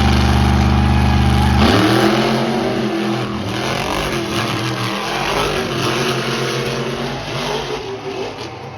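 Monster truck engines held at high revs, then about two seconds in they launch and climb in pitch through the gears, the sound slowly fading as the trucks race away.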